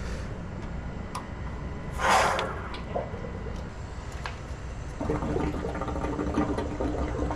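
Water rushing out as a water heater is drained, with a short loud hissing gush about two seconds in. About five seconds in a steady hum joins it and carries on.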